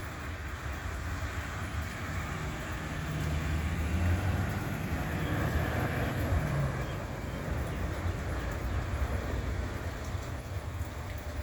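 Road traffic on wet pavement: a steady low rumble of vehicle engines and tyre noise that swells about four seconds in, as a vehicle passes, and eases again.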